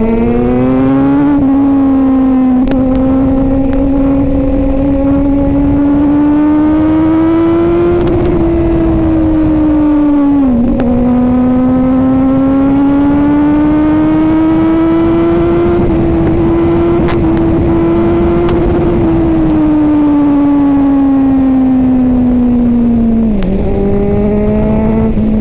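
Kawasaki Z900's inline-four engine pulling hard at high revs. The pitch climbs and sags with the throttle, with sharp drops about ten and twenty-three seconds in, over a rush of wind noise.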